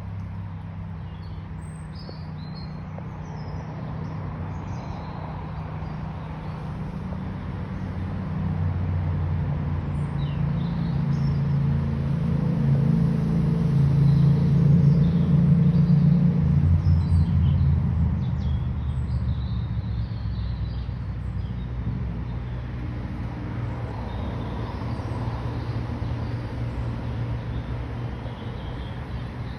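A low engine hum slowly swells to its loudest about halfway through and then fades again, as a motor passes, with small birds chirping throughout.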